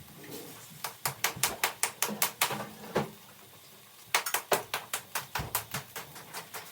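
Rapid run of sharp taps, about five a second, stopping briefly after a louder knock and starting again about a second later.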